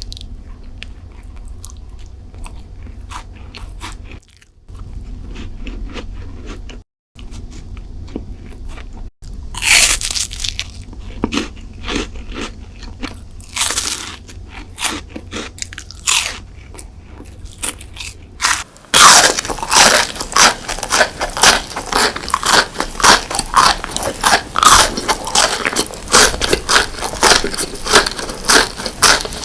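Close-miked eating: biting and chewing crunchy sweet food, in several spliced clips that change abruptly about 4, 7, 9 and 19 seconds in. From about 19 seconds on the crunching is loudest and rapid.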